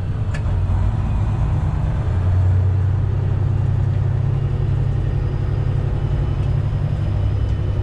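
Freightliner Classic XL's Detroit Diesel Series 60 12.7-litre engine running at low revs as the truck creeps along, a steady low rumble heard from the cab.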